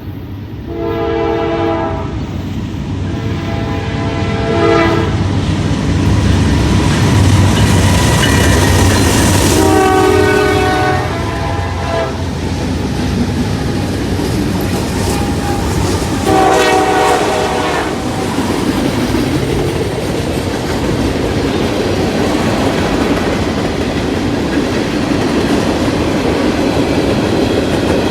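Freight train diesel locomotives passing with the air horn sounding: two blasts in the first five seconds, then two more, about ten and sixteen seconds in. Underneath and afterwards, the steady rumble of the engines and the clatter of the wheels on the rails.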